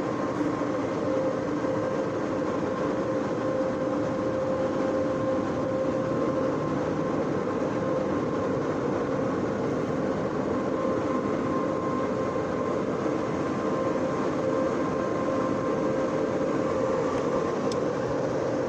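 Belanger DuoDry car wash blowers running, a steady rush of air with a constant hum through it, heard from inside the car as it creeps through the drying stage.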